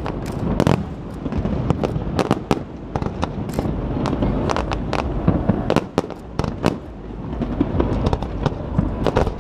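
Aerial fireworks going off: a dense run of sharp bangs and crackles, several a second, over a continuous low rumble.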